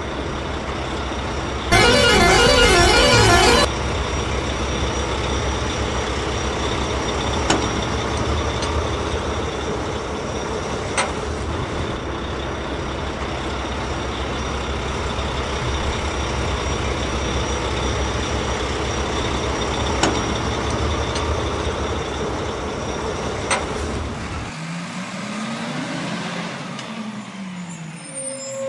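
A motor vehicle's engine running with a steady rumble. A loud horn blast about two seconds in lasts roughly two seconds, and a few sharp clicks come later. Near the end the rumble drops away, leaving a sweeping rise-and-fall sound.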